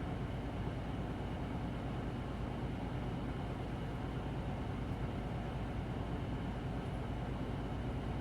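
Hino Blue Ribbon City Hybrid bus heard from inside the cabin, its diesel engine running at a steady speed with a constant low hum and mechanical noise.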